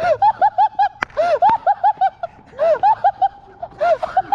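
Young men laughing hard, a fast string of pitched 'ha' bursts in several runs, with a sharp click about a second in.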